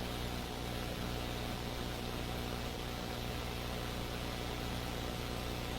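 Steady hum of a police helicopter's engine and rotors, heard through the cockpit intercom with a constant hiss over it.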